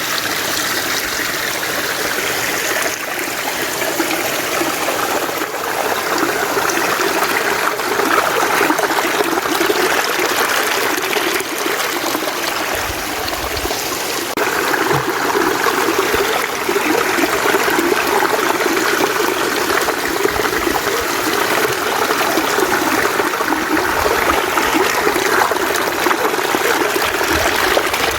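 Mountain stream running steadily over rocks, a continuous trickling and splashing flow.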